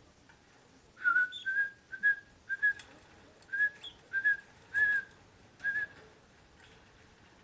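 A run of about ten short whistled notes, all near the same pitch, spread over about five seconds.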